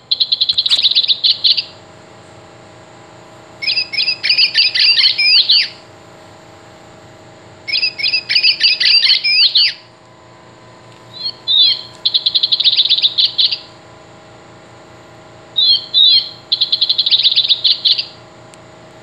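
Recorded American robin calls played from the sound boxes of Audubon plush robin toys, squeezed five times: two kinds of high, quick-noted phrases, each about two seconds long, with short pauses between them.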